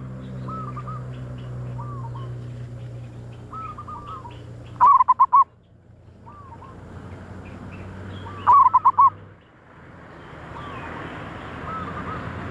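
Zebra doves cooing: two loud bursts of rapid staccato coo notes, about five seconds and eight and a half seconds in, with fainter coos from other doves in between. A low steady hum stops about nine seconds in, and a hiss rises after it.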